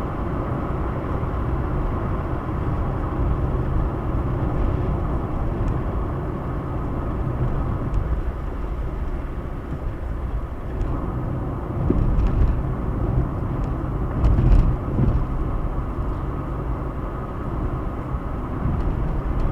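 Car driving on a highway, heard from inside the cabin: a steady rumble of engine and tyres on the road, with two louder jolts about two-thirds of the way through.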